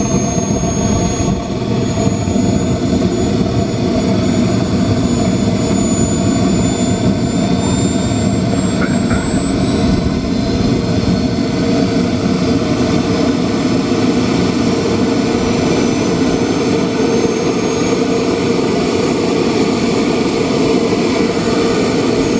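Miniature gas-turbine jet engine of a large RC scale Aermacchi MB-339 model running with a steady roar. Its high turbine whine climbs slowly in pitch throughout as the throttle comes up.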